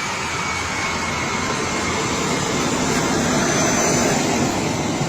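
Jet aircraft engine running with a steady roar and a faint high whine.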